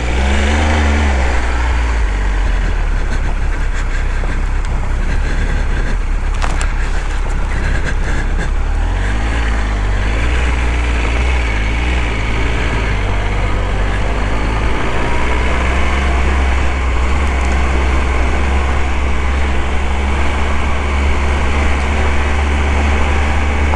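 Motorcycle engine running while riding, its note rising and falling a few times, with a steady rush of wind and road noise on the microphone.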